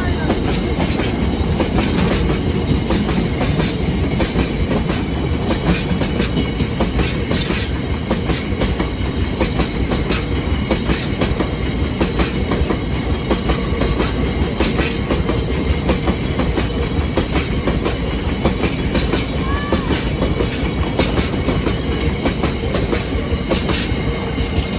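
A train running past close by, its wheels clattering steadily over the rail joints.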